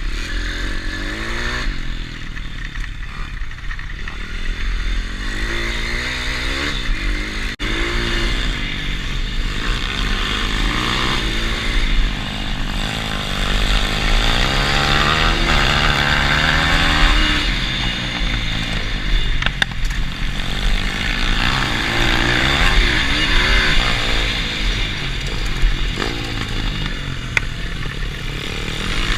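Pit bike engine revving up and down as the bike is ridden round a track, its pitch rising and falling again and again with the throttle.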